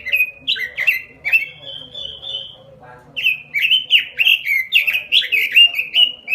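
Pekin robin (red-billed leiothrix) singing in full, vigorous song: a fast run of clear, loud whistled notes that mostly slide downward, with a short break about three seconds in before a second rapid phrase.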